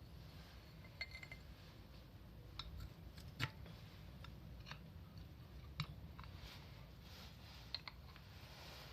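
Faint, scattered clicks and light metallic clinks of small parts being handled, the sharpest about three and a half and six seconds in.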